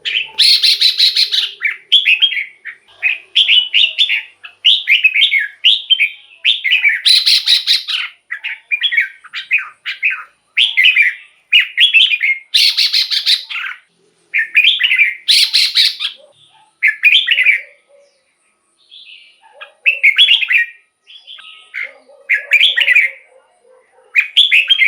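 Red-whiskered bulbul singing short, rich whistled phrases one after another, broken by a few harsher rattling calls. The phrases come more sparsely over the last several seconds.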